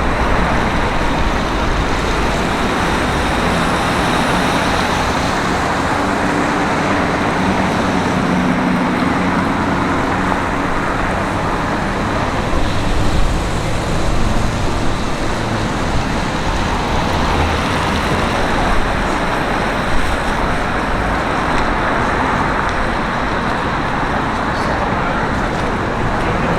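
Steady city street traffic noise: a continuous rush of passing cars and other vehicles, with one engine note standing out for a few seconds about a quarter of the way in.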